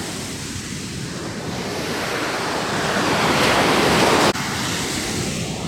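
Baltic Sea surf washing onto a sandy beach, swelling louder to a peak about four seconds in and then dropping off suddenly.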